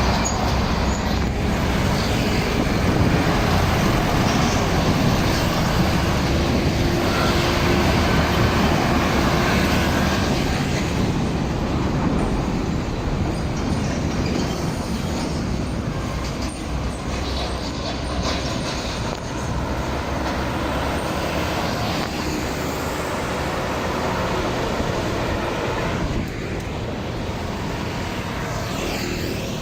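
Steady roadside traffic noise with trucks running past close by, the noise easing slightly towards the end.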